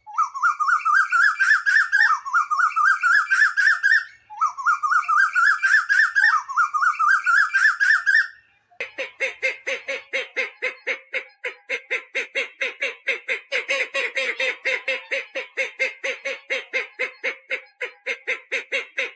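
Two different recorded bird calls in sequence. First a call of rapid notes climbing in pitch, repeated as four phrases of about two seconds each. Then, after a short gap, a different bird's steady run of short harsh notes, about three a second, lasting about ten seconds.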